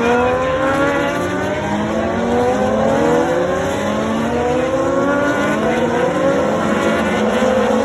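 Several racing motorcycles accelerating past together, their engine notes overlapping and climbing in repeated rising steps as they shift up through the gears.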